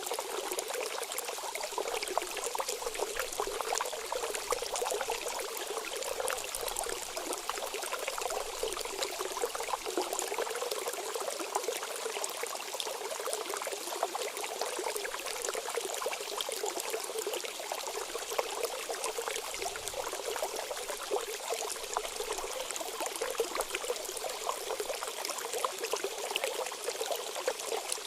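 Geothermal hot water bubbling and splashing steadily, with many small plops.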